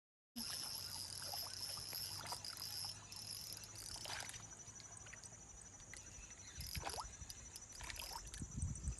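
Insects chirring steadily in two high tones, with scattered clicks and rustles and a few low thumps near the end.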